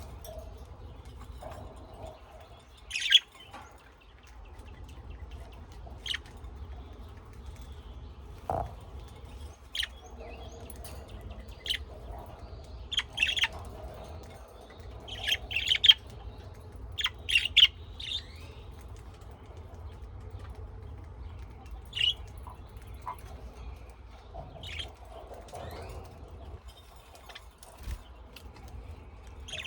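Birds chirping: short, sharp calls scattered irregularly, with a busier cluster about halfway through, over a steady low rumble.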